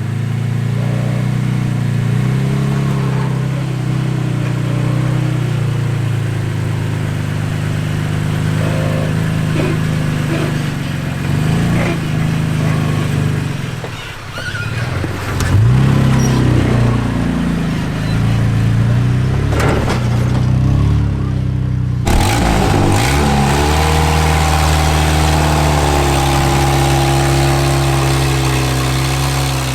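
Off-road vehicle's engine running at low speed while crawling over an obstacle, its pitch dipping and rising as the throttle is worked. There is an abrupt change in the sound about two-thirds of the way through.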